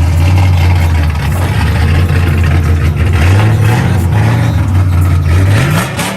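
Car engine running with a loud, steady low drone; its pitch steps up about halfway through and rises near the end as the engine revs.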